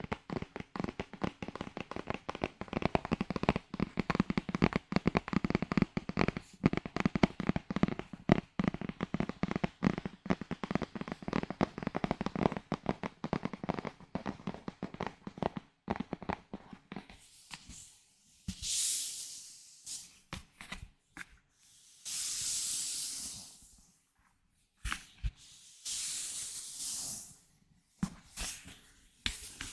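Close-miked ASMR trigger sounds from a handled object: a long run of rapid, dense crackling taps. About two-thirds of the way through, this gives way to a few separate hissing swishes, each a second or two long.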